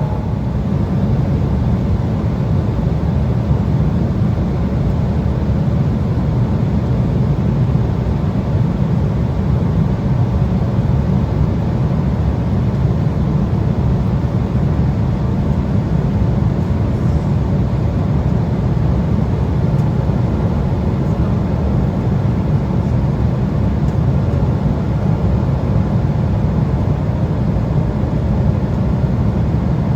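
Steady cabin drone of an Embraer 175 regional jet in cruise: a low, even roar of engine and airflow noise with a faint steady hum above it.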